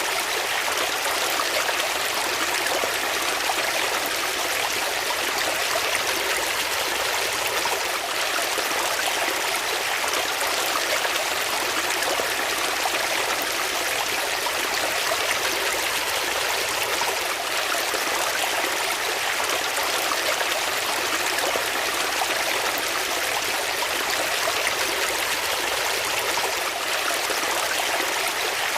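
Water flowing steadily, an even rushing and trickling sound without pause or change.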